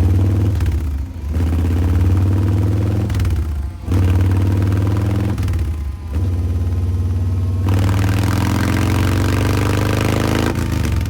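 2021 Harley-Davidson Breakout's Milwaukee-Eight 114 V-twin through Vance & Hines Eliminator 300 slip-on mufflers, revved about four times, the pitch rising on each and dropping back between them; the last rise is the longest.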